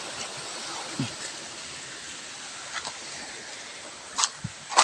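Water flowing in a shallow stream or irrigation ditch, a steady rushing hiss, with a few brief knocks as it is waded across.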